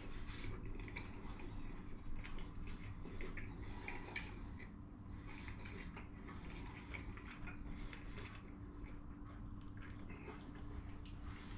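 A man chewing a mouthful of doner kebab in pitta, heard as faint small wet clicks and mouth sounds over a steady low hum.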